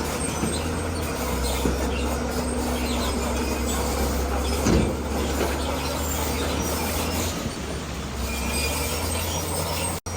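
Crawler bulldozer working stone: its diesel engine runs steadily under load, with the grinding and scraping of steel tracks and pushed rock over it. A louder knock comes about halfway through, and the sound cuts out for an instant near the end.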